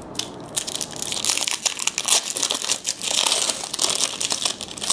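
Crinkling of a trading-card pack wrapper, a dense run of crackles throughout as the wrapper is handled between packs.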